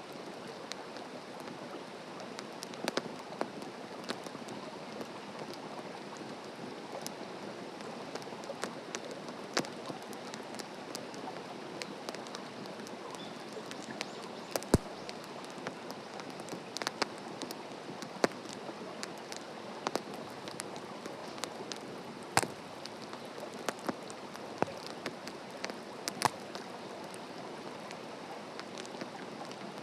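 Wood fire burning: a steady hiss with irregular sharp crackles and pops, and a few louder snaps spread through.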